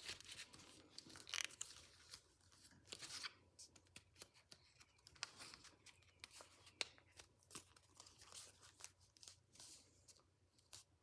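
Sheet of paper being folded and handled: irregular crinkles, creases and rustles, with a few sharp crackles.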